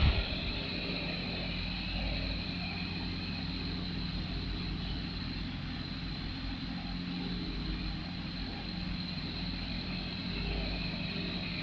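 Electric fan running with a steady buzz: an even motor hum with a few held tones over soft air noise.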